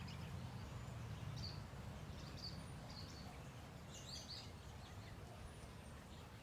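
Faint outdoor ambience: a low rumble underneath and several short, high bird chirps, most of them near the middle.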